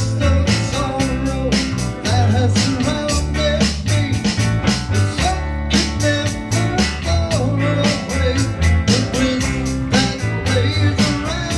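Live band playing a rock song: guitar, bass and drums with a steady beat, and a melody line over the top.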